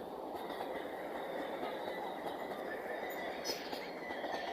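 Diesel-hauled express passenger train running past on the track: a steady rolling rumble with a faint high whine over it.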